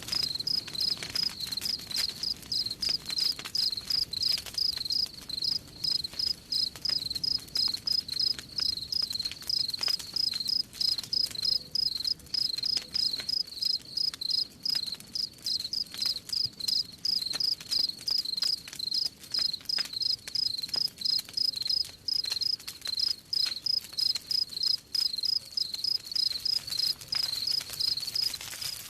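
Crickets chirping in a steady, even rhythm of high chirps, over the scattered pops and crackles of a wood campfire.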